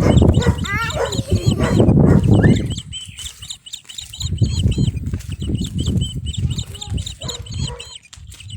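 A bird chirping over and over in short high notes, several a second. A loud low rumbling noise covers the first three seconds.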